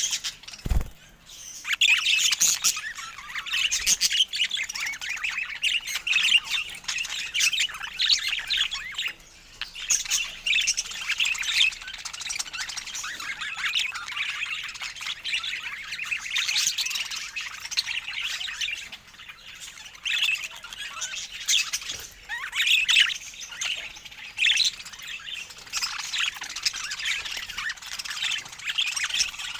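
Budgerigar chatter: continuous rapid chirping and warbling, broken by short squawks.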